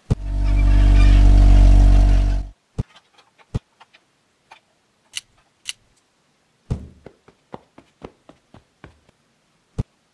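A loud steady buzzing hum for about two and a half seconds, cutting off sharply, followed by a string of short sharp clicks and taps.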